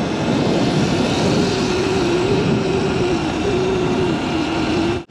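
Wind rushing over the microphone while riding a Sur-Ron electric dirt bike, a steady rush with a hum underneath that wavers slightly in pitch. It cuts off abruptly just before the end.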